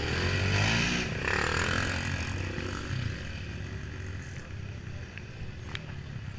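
Off-road vehicle engine revving, its pitch rising over the first second, then running more steadily with a few sharp clicks and knocks.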